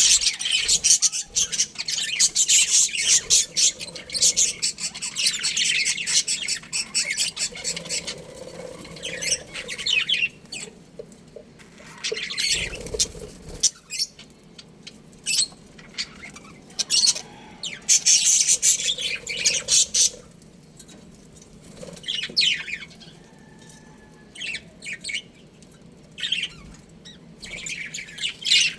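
A flock of budgerigars chirping and chattering in rapid, high-pitched calls that come in busy clusters, thickest over the first several seconds and again about two-thirds of the way through, sparser in between.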